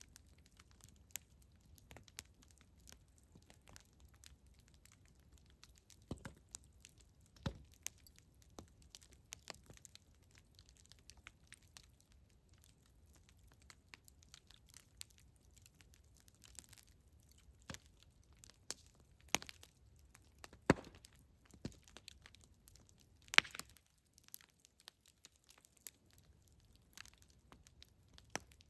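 Campfire crackling: irregular small pops and snaps of burning wood over a faint steady hiss, with a couple of sharper, louder snaps in the latter part.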